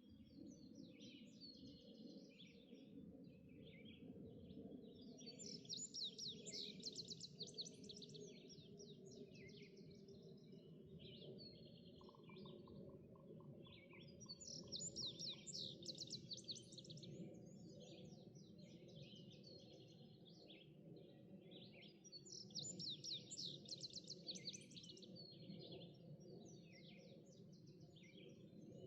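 Songbirds singing in a morning chorus, faint, with one fast, busy song phrase coming back about every eight seconds and other birds chipping and warbling between. Underneath runs a low, steady rumble.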